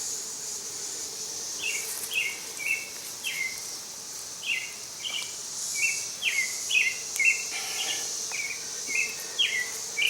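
A bird chirping over and over, short falling notes at an uneven pace, over a steady high insect hiss. Beneath them runs a faint steady hum from the honey bee colony.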